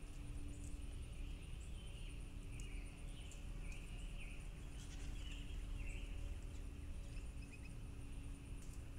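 Small birds chirping, a run of short wavering calls through the middle few seconds, over a steady high insect drone and a low outdoor rumble.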